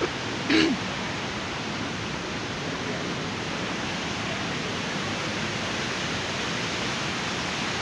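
Waterfall rushing, a steady even noise, with a short vocal sound about half a second in.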